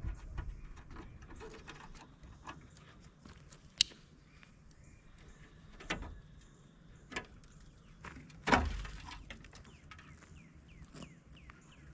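Sporadic clicks and metal knocks of hand tools working bolts and studs off a tractor's dash support, with a sharp click about four seconds in and a louder clunk about eight and a half seconds in.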